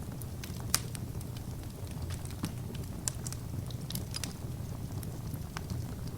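Wood fire burning: a steady low rumble of flames with scattered sharp crackles and pops, the loudest pop just under a second in.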